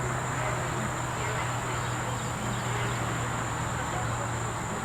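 A steady outdoor background: a constant high-pitched insect chorus over a low, even hum.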